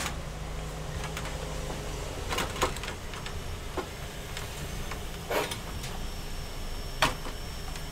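A few scattered clicks and light knocks of hands working inside an opened all-in-one computer while RAM modules are fitted, over a steady low hum.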